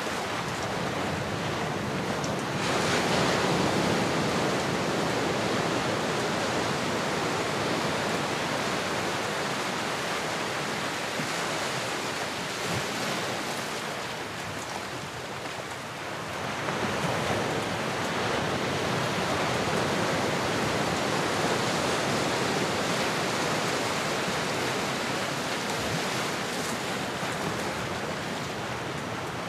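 Ocean surf: a steady wash of waves that swells about three seconds in, eases off a little past the middle, then swells again.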